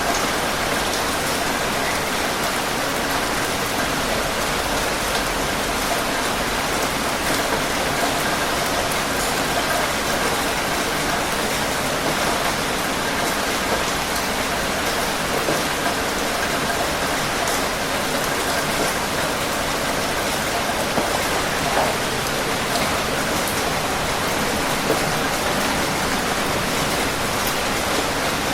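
Steady rain falling on a surface, a constant hiss with faint scattered drop ticks.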